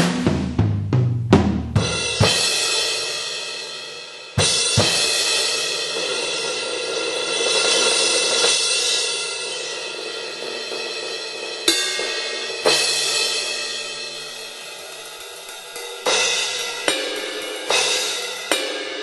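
Electronic drum kit triggering sampled acoustic drums from a 2Box module, set to a sampled Rogers kit. A quick run of drum hits gives way to cymbal crashes that ring out and wash, with fresh crashes struck several more times and a short flurry of hits near the end.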